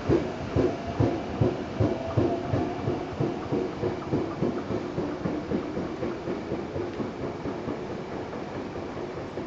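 Seibu electric train cars rolling slowly over rail joints and points, the wheels clacking in an even rhythm of about two to three knocks a second that fades as the train moves away. A faint steady whine runs under the clacks.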